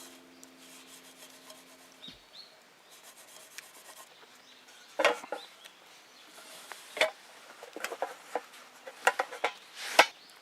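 Background music ending about two seconds in, then a series of short scraping, rubbing and knocking sounds from about five seconds in, the sharpest knock near the end.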